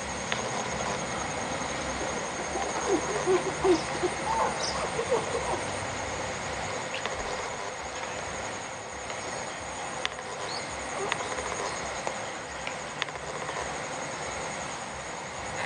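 Rural outdoor ambience by rice fields: a steady high insect drone, with a cluster of short gliding animal calls for a few seconds near the start.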